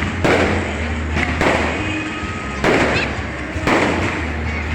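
Fireworks bursting: four sudden, loud reports about a second apart, each dying away over about a second, over a steady low hum.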